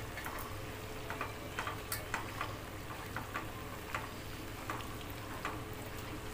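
Mutton chops frying in a kadai: a soft sizzle broken by irregular clicks and scrapes as a metal spatula turns the pieces against the pan, over a steady low hum.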